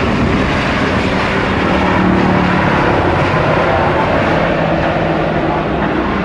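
Large jet airliner's engines running loud, a broad rushing noise with a low steady hum, swelling a little over the first two seconds and then holding steady.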